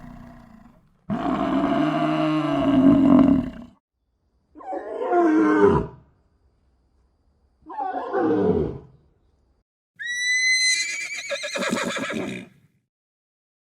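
Four separate animal calls with short silences between them. The middle two fall in pitch, and the last starts high and quavers, typical of a horse's whinny.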